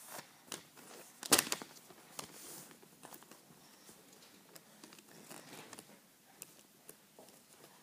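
A sheet of paper rustling and crinkling as it is handled and folded, in short scattered crackles, the loudest about a second and a half in.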